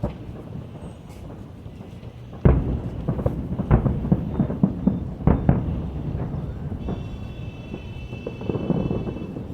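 Aerial fireworks bursting: a loud boom about two and a half seconds in, then a quick run of bangs and crackles over the next few seconds, over a continuous low rumble of more distant bursts. A high steady tone joins near the end.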